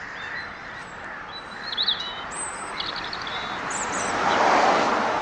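European robin singing: short, thin, high-pitched warbled phrases with brief gaps between them. Near the end a broad rushing noise swells up and fades, louder than the song.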